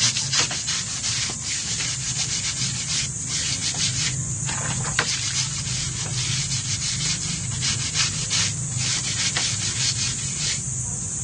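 Stiff brush scrubbing a soapy motorbike tyre in quick back-and-forth strokes, stopping about ten and a half seconds in.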